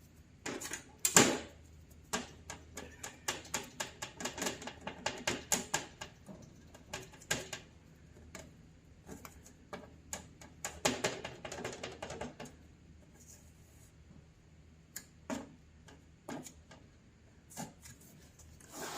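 Spreader scraping and tapping on a mixing board as body filler is worked together with hardener: a quick run of sharp strokes, a second run near the middle, then a few scattered taps.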